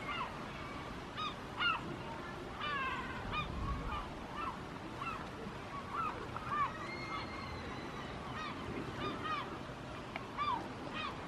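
Birds calling: a busy series of short, repeated calls, several a second, with a longer drawn-out whistled note about seven seconds in.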